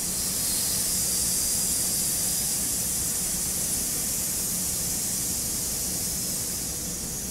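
A man's long, steady hissing exhale, "sssss": the lung sound of the Taoist Six Healing Sounds, breathed out through the teeth. It starts sharply and eases slightly near the end.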